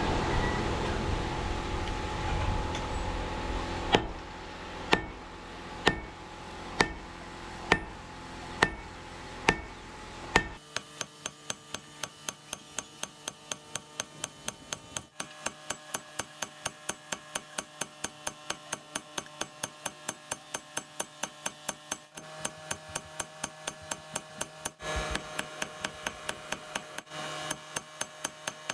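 Hammer blows on steel at an anvil while forging a Damascus billet, with a metallic ring. First come single blows about once a second over a steady rushing noise. About ten seconds in the noise stops and the hammering becomes a fast, even run of several strikes a second.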